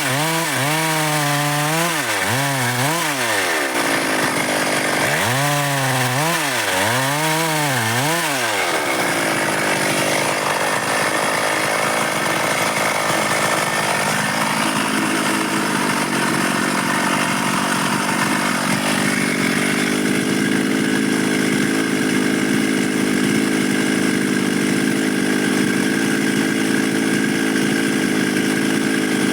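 Stihl MS 382 two-stroke chainsaw revved up and down about six times in quick swells over the first eight seconds. It then runs at a steady high speed, cutting dry wood, for the rest.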